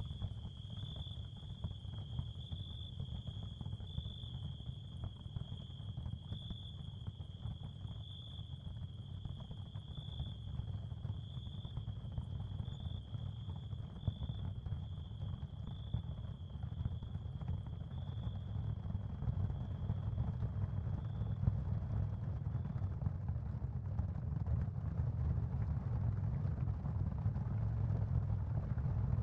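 Ambient sound-therapy soundscape: a steady low rumble with a fine crackle over it, and a high steady tone that swells gently about once a second. The high tone fades out a little past two-thirds of the way through, while the rumble grows slightly louder.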